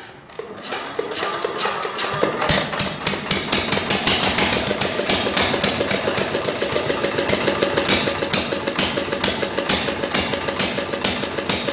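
Single-cylinder four-stroke 5 hp diesel engine starting up after a cylinder head rebuild: it picks up over the first two seconds, then runs steadily with a regular knocking beat of about six a second.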